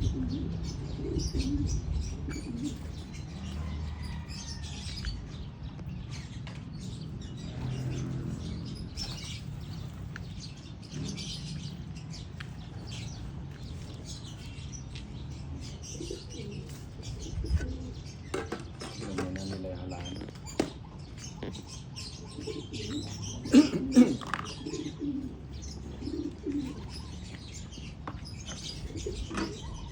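Racing pigeons cooing, with scattered wing flaps and scratchy clicks. Louder sharp flaps come once past the middle and twice in quick succession about three-quarters of the way through.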